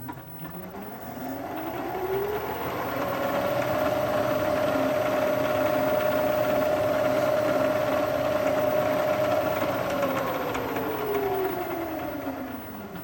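A machine tool's electric motor and spindle running up to speed over a few seconds with a rising whine, running steadily, then winding down with a falling whine near the end, as it is used to spot holes with a centre drill.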